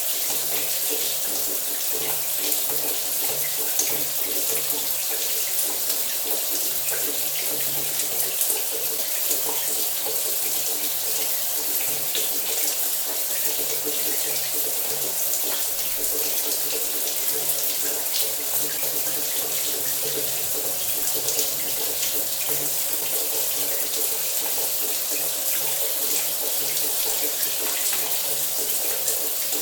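Shower running steadily, its spray hissing evenly onto a surface, with a faint steady low hum underneath.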